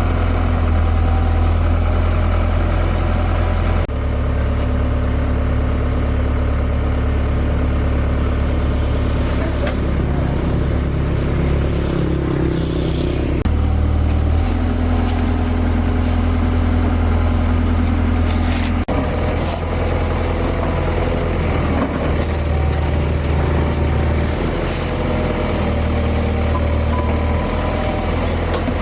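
A heavy engine running steadily at idle, its low hum shifting abruptly at a few points.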